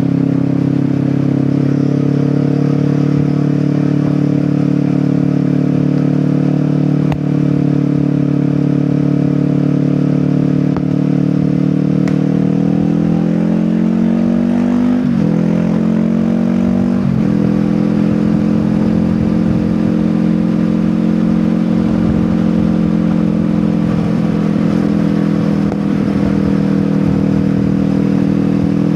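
Kawasaki Ninja 400's parallel-twin engine through an Akrapovic exhaust, running steadily while under way. About halfway through the revs climb, then drop sharply twice as gears shift up, and the engine settles back to a steady note.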